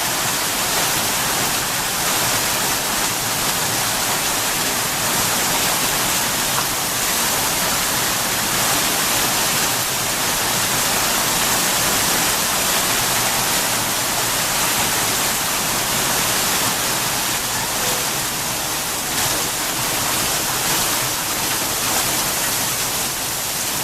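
Hailstorm: hail and heavy rain falling, a dense, steady hiss that holds at the same level throughout.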